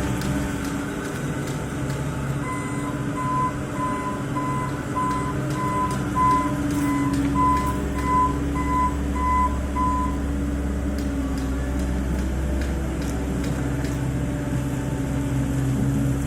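Caterpillar 226B skid steer loader's diesel engine running steadily. Its reversing alarm beeps about twice a second for around seven seconds, starting a couple of seconds in, the sign that the machine is in reverse.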